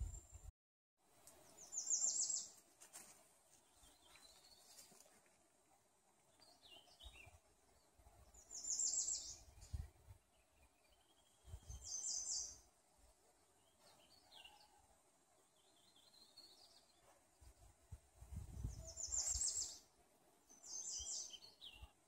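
Songbirds singing in woodland: one bird repeats a short, high, trilled phrase about five times, a few seconds apart, with softer, lower calls in between. Occasional low rumbles underneath, and a brief moment of dead silence about half a second in.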